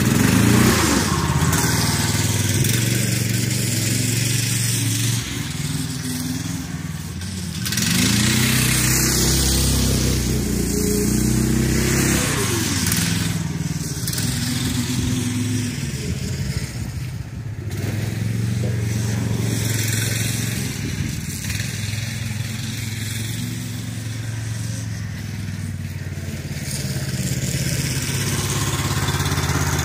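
Stock Predator 420cc single-cylinder four-stroke engine on a go-kart running under way, revving up and easing off again several times as the kart is driven.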